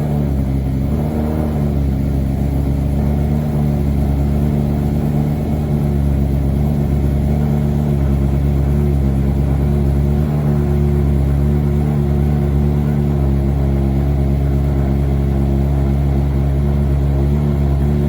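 Exhaust note of a 2024 BMW S1000RR's inline-four through a full Akrapovic exhaust system, running loud at a steady, unchanging engine speed with no revving.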